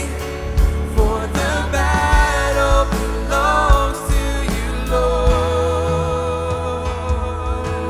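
Live worship band playing a contemporary Christian song: drums, bass, synth and piano under a moving melody line that settles into one long note with vibrato about five seconds in.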